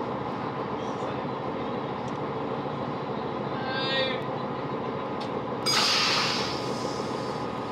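Interior of a Great Western Railway Class 165 diesel multiple unit drawing to a stop: steady running rumble, a brief high squeal about four seconds in, then a sudden loud hiss of released air lasting under two seconds, about six seconds in.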